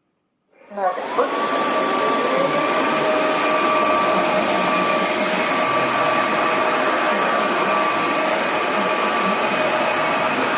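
Roborock F25 ACE cordless wet/dry vacuum-mop switching on: about half a second in, its motor spins up with a rising whine that settles within a couple of seconds. It then runs steadily with a constant whine over a rushing hum.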